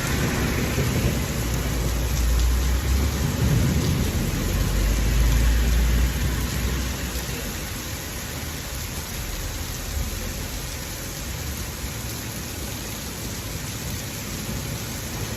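Thunder rumbling over steady heavy rain; the rumble dies away about six seconds in, leaving the rain alone.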